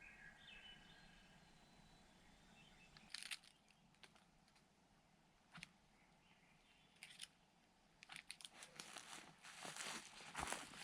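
Near silence broken by a few short crunching rustles, which become a steady run of crunching and rustling from about eight seconds in.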